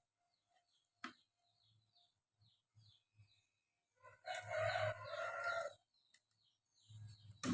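A rooster crowing once, a loud call of about a second and a half starting about four seconds in, over faint chirping of small birds. A sharp click about a second in.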